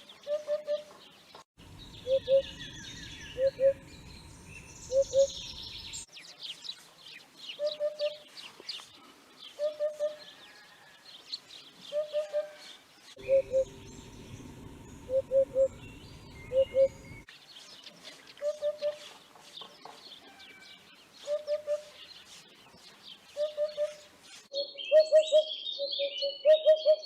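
Common hoopoe calling: a soft, low hoop-hoop-hoop given in groups of two or three, repeated every second or two. Other small birds chirp higher up, and a brighter twittering song joins near the end.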